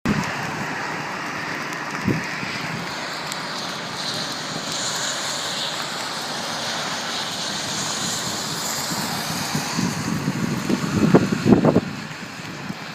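Steady rushing noise of a rainstorm, rain and wind together, with a run of irregular low buffeting thumps near the end.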